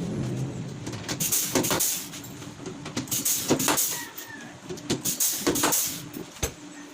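Hands-on work assembling a wooden flight case: scattered clicks and knocks with a few short scraping rushes of noise. A power tool's motor dies away at the start.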